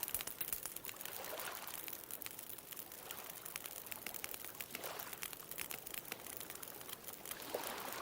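Wood bonfire crackling with many small sharp pops, over a steady wash of ocean waves.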